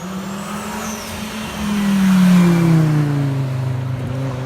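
Audi Sport quattro S1 rally car's turbocharged five-cylinder engine going past under power. It is loudest about two seconds in, then its engine note falls. A thin high turbo whistle rises and falls in the first second.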